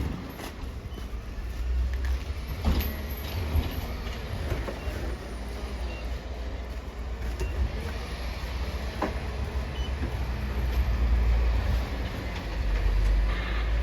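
Storm wind buffeting the microphone: a steady low rumble that swells and eases, with a few scattered clicks.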